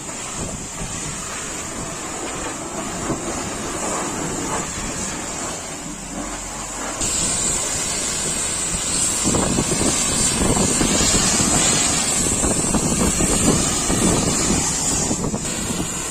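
High-pressure water spray hissing steadily against a truck, getting louder about seven seconds in.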